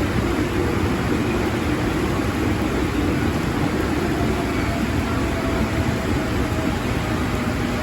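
JR 205 series electric commuter train running through the station: a steady rumble and hiss with no break, and faint steady tones coming in near the middle.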